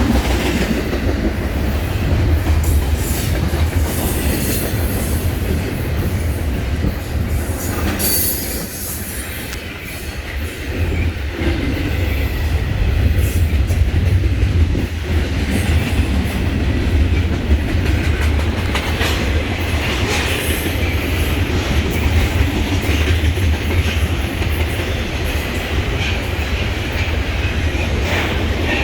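Train passing, its wheels rumbling steadily on the rails with repeated clicking and brief high-pitched wheel squeals.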